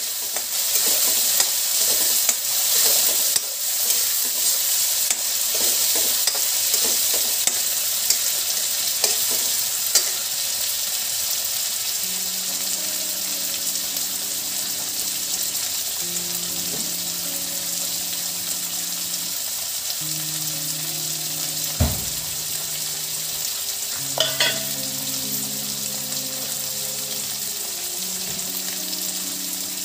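Paneer cubes, cashews, raisins and whole spices sizzling in hot oil in a kadhai. For the first ten seconds or so a spoon stirs them, clinking and scraping against the pan. After that the frying carries on steadily with only an odd click.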